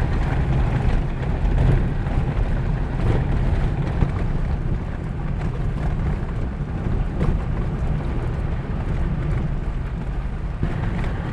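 Vehicle driving on a forest road, heard from inside: a steady low engine and tyre rumble with scattered small knocks and rattles.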